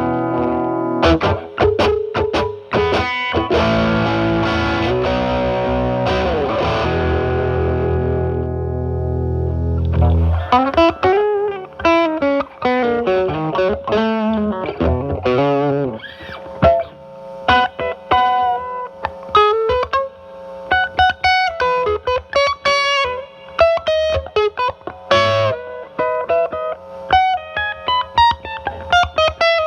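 Fender Stratocaster with single-coil pickups played through a Paul Cochrane Timmy overdrive pedal, used as a gain booster into a Marshall Valvestate amp's drive channel, giving a distorted tone. Sustained chords ring for about the first ten seconds, then single-note lead lines with string bends follow.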